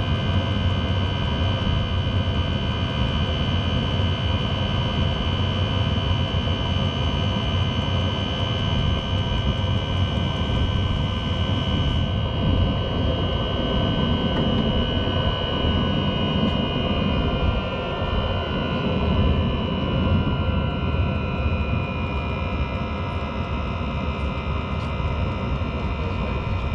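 Diesel air heater running with a loud, steady jet-engine-like roar and a high whine; about halfway through the whine drops slightly in pitch. The noise seems to come from a worn bearing in the heater's motor.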